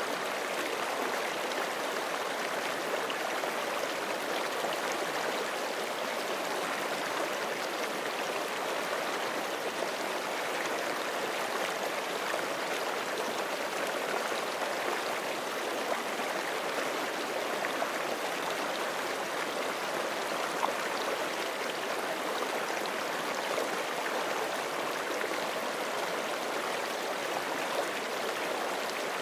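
Forest creek flowing steadily over rocks, an even rushing and babbling of water with small splashes here and there.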